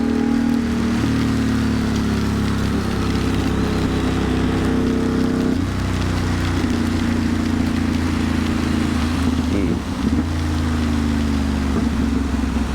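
Ducati Monster's V-twin engine running steadily, its pitch shifting a few times with the throttle, with a short dip about ten seconds in. Under it runs a constant hiss of wind and wet road.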